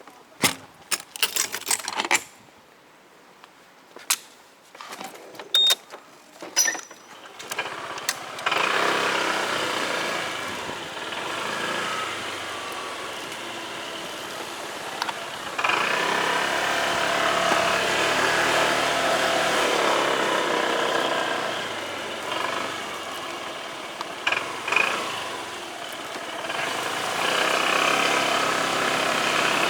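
A few scattered clicks and knocks, then from about eight seconds in a motorcycle runs steadily with engine and road noise.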